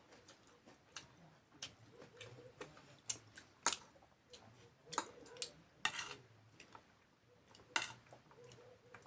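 Quiet eating sounds at a meal of instant noodles: scattered short clicks and smacks of chewing and of utensils against a bowl, about a dozen over several seconds.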